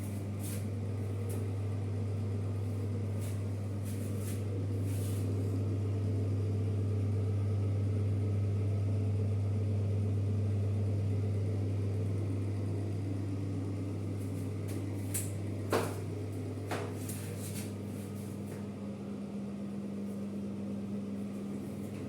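A steady low mechanical hum, with a couple of sharp clicks about two-thirds of the way through.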